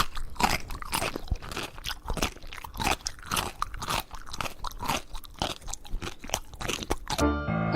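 Crunchy food being chewed: quick, irregular crunches, several a second. A short pitched sound comes in just before the end.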